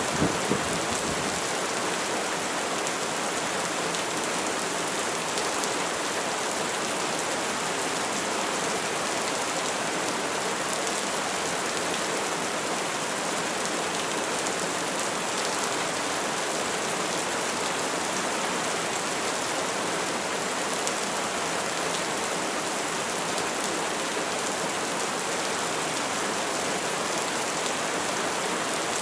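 Steady rain falling on a surface. The tail of a thunder rumble dies away in the first second or so.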